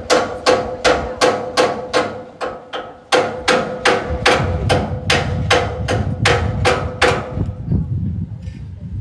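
Small hammer striking in quick, even blows, about three to four a second, over a steady ringing note. The hammering breaks off briefly about two and a half seconds in, resumes, and stops near the end.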